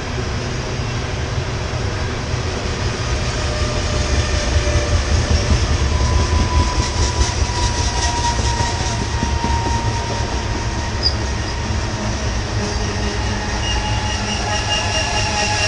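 Loaded coal hopper and gondola cars rolling by with a steady low rumble of steel wheels on rail, louder for a few seconds in the middle. A thin metallic wheel squeal comes in about six seconds in and again near the end as the train slows to stop.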